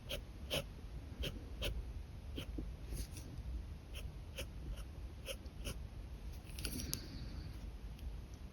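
Pen scratching on paper in short, quick strokes, about one to two a second at an uneven pace, with a longer scratchy run of strokes about seven seconds in. A steady low hum sits underneath.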